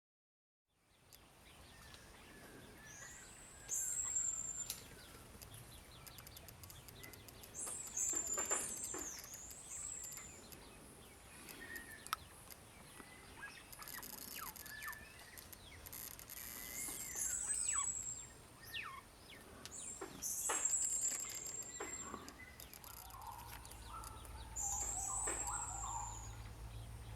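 Wild birds calling: a high, thin call that swoops up and down in pitch, repeated every few seconds, over softer, lower chirps.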